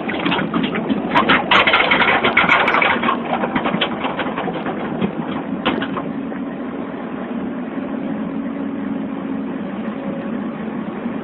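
Excavator engine running steadily, with a dense run of clattering and cracking noises for the first five or six seconds that then dies away.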